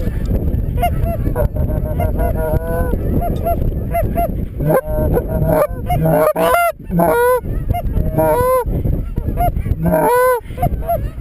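Geese honking repeatedly, the calls coming thicker and louder from about halfway in, over a steady rumble of wind on the microphone.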